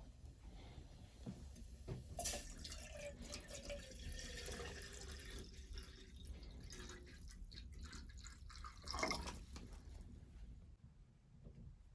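Water dripping and trickling, with small clicks and knocks throughout and a brief louder splash or rustle about nine seconds in.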